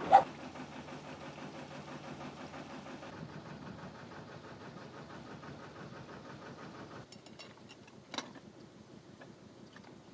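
Narrowboat diesel engine running steadily with an even pulse. It grows quieter about three seconds in and again about seven seconds in. There is a sharp knock right at the start and a lighter one about eight seconds in.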